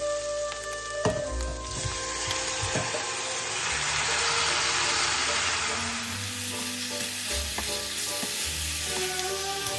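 Raw chicken pieces sizzling in a hot stainless steel pan of onions while a wooden spatula stirs them, pan-frying until the juices come out. The sizzle swells about two seconds in, peaks mid-way and eases after about six seconds; a sharp knock sounds about a second in.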